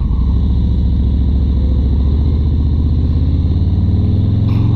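Harley-Davidson Road Glide Standard's V-twin running through Vance & Hines 4.5-inch mufflers with a low rumble, its pitch climbing steadily through the second half as the bike speeds up.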